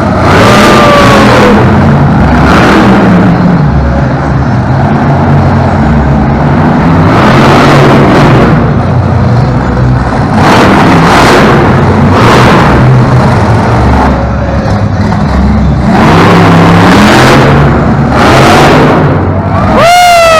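Monster truck's supercharged V8 engine revving hard in repeated surges a second or two long over a steady low rumble, very loud. A short falling whistle-like tone cuts through near the start and again at the end.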